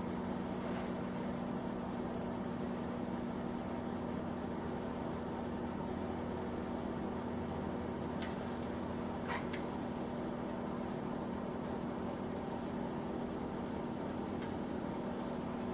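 Steady hum of a small electric space heater running in the shop, with a few faint clicks from handling the saddle and oil can about eight, nine and fourteen seconds in.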